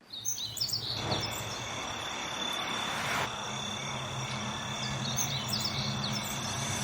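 Outdoor nature ambience: birds chirping in short calls near the start and again later, over a steady high insect drone.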